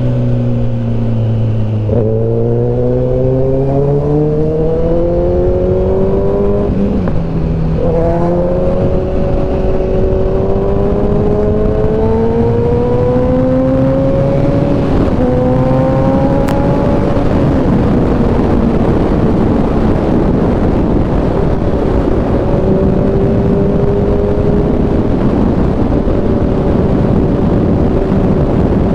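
Kawasaki ZX-10R's inline-four engine under way: after a brief slowing, it pulls up in pitch with a few gear shifts through about the first half, then holds a steady cruise, with heavy wind rush over it.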